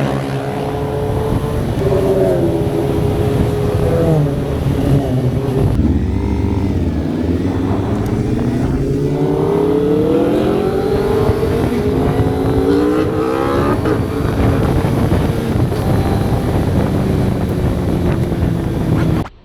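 Suzuki GSX-R 750 motorcycle's inline-four engine under way, revving up and down through the gears. A long rise in pitch about halfway through drops off sharply, and the sound cuts off abruptly at the end.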